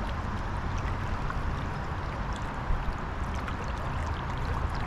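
Steady rush of flowing river water, with one brief tap a little past the middle.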